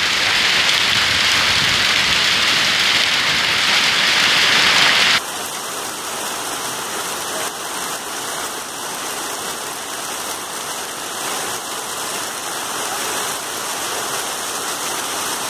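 Heavy rain pouring down, a loud steady hiss, on a tiled roof at first; about five seconds in it cuts abruptly to a quieter, steady downpour.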